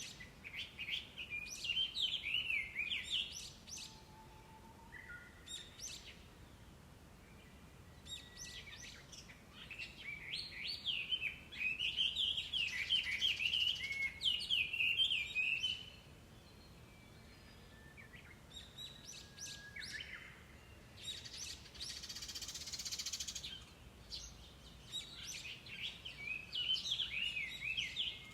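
Chinese hwamei (gabichō) singing in three long bouts of fast, varied whistled phrases with quick rises and falls in pitch. A short hiss comes during the last bout.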